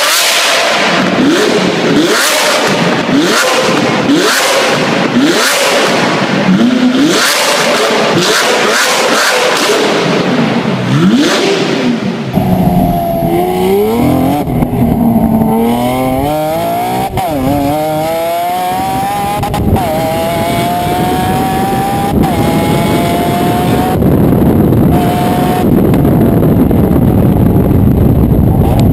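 Lamborghini Aventador LP700-4's V12 with a Larini exhaust, blipped hard about once a second with crackles and pops from the exhaust as it shoots flames. After an abrupt change about twelve seconds in, the engine instead revs up in longer sweeps that rise and drop back. It ends in a steadier rushing noise.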